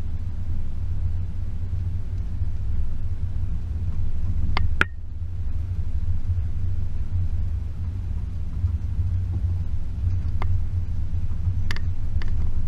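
Range Rover P38's 4.0-litre V8 driving slowly off road, a steady low rumble, with a few sharp knocks about five seconds in and again near the end.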